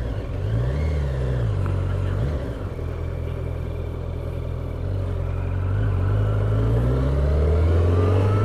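Motorcycle engine riding off and accelerating, its pitch rising and falling with the revs through the first couple of seconds, then climbing steadily near the end.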